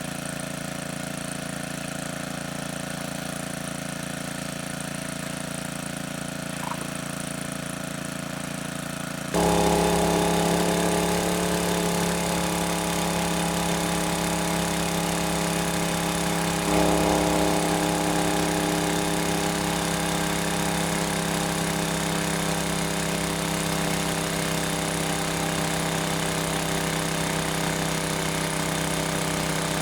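A small engine running steadily. About nine seconds in, the sound abruptly gets louder and its pitch pattern changes, with another brief rise around seventeen seconds.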